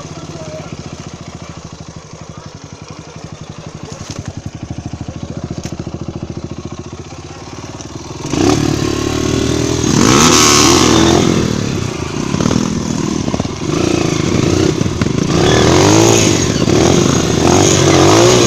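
Single-cylinder dirt-bike engine idling with an even beat for about eight seconds, then revving up hard as the bike pulls away. Its pitch then rises and falls with the throttle.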